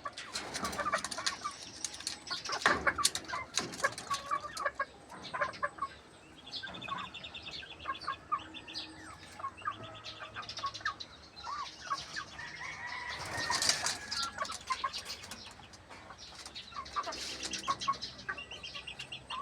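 A flock of young pullets clucking and making short calls throughout, with bursts of wing flapping about three seconds in and again near the middle.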